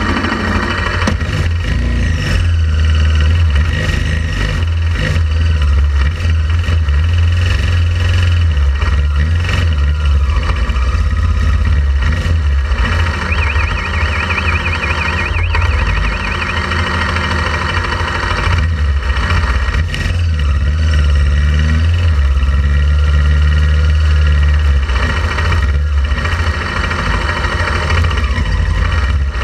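Motorcycle riding along, with engine noise under a heavy, steady wind rumble on the microphone. A warbling high tone sounds briefly near the middle.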